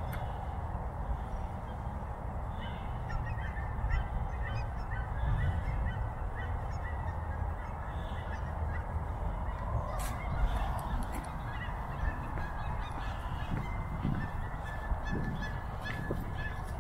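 Faint, scattered honking bird calls over a steady low rumble.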